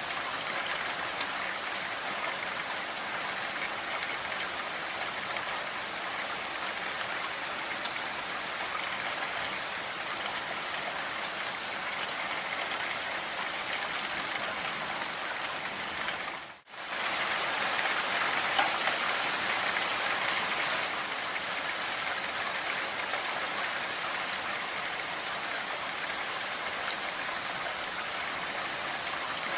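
Steady rain falling, a dense patter of drops. About halfway through it drops out for a split second and comes back slightly louder for a few seconds.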